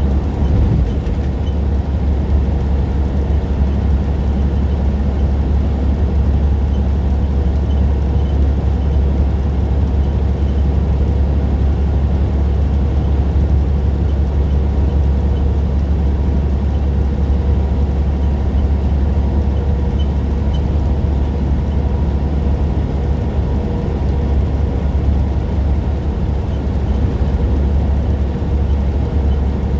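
Semi-truck cruising: a steady low drone of the diesel engine with road noise, unchanging throughout.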